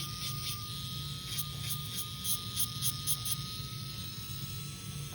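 Electric nail drill running with a steady high whine and buzz, its bit filing gel polish off the top of a fingernail.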